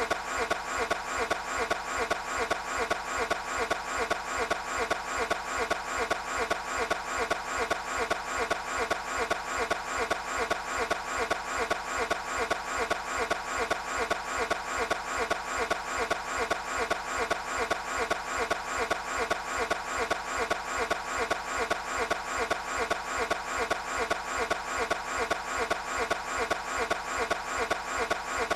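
Toyota GT86 engine cranking over and over on its starter without catching, in an even, unchanging rhythm of about two to three strokes a second.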